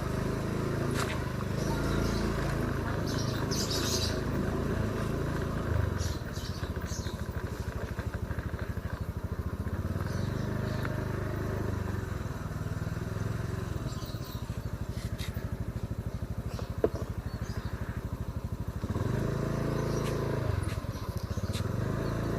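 Motorcycle engine running while riding slowly, its revs rising and falling, with two clear rises near the end. A single sharp click sounds about two-thirds of the way through.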